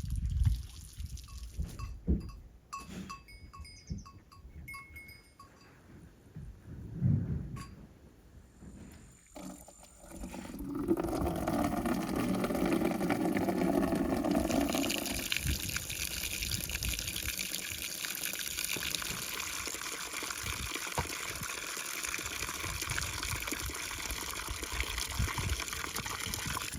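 A few light knocks and clatter, then about ten seconds in, liquid starts running steadily into a container. A few seconds later the sound turns higher and hissier.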